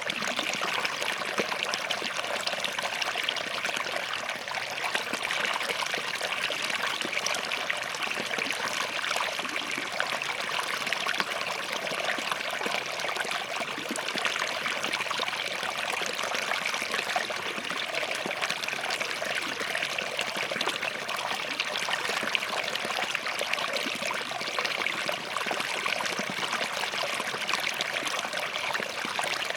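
Small forest stream flowing over and between rocks: a steady, even rush of water with fine splashing and trickling.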